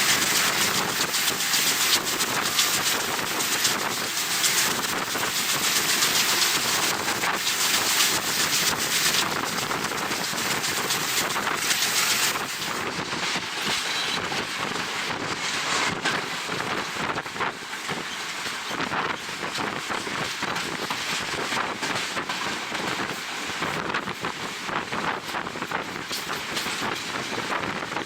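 A moving passenger train's wheels clattering over the rails, with wind rushing and buffeting the microphone from the open window. The wind hiss is heaviest in the first part and eases about twelve seconds in, leaving the rail clatter and rumble clearer.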